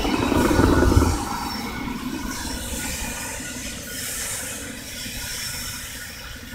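Freight train with Kansas City Southern de México diesel locomotives running on the line, the rail noise slowly fading. A loud low rumble comes in the first second.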